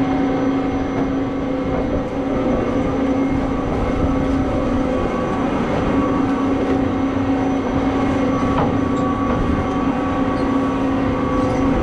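Steady mechanical hum: a constant low drone with higher overtones that holds at one pitch throughout.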